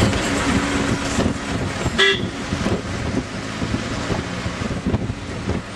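Road traffic noise with a short vehicle horn toot about two seconds in.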